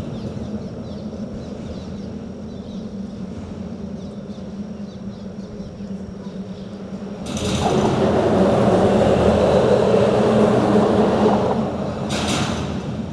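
Road traffic: a steady low rumble and hum, then a vehicle passes close, louder for about five seconds from about seven seconds in, with tyre hiss as it comes and goes.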